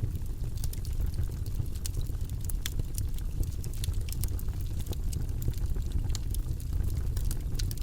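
Wood campfire crackling: irregular sharp pops and snaps scattered over a steady low rumble.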